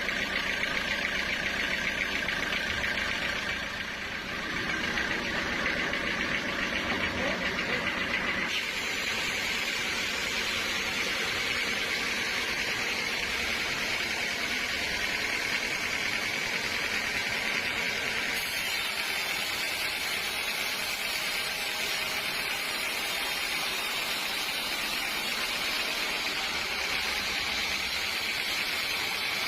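Sawmill machinery running steadily, with an engine-like drone; the sound changes abruptly about eight seconds in and again about eighteen seconds in.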